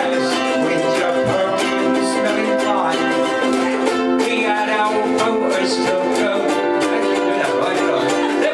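A group of ukuleles strumming chords together in a steady rhythm, playing live.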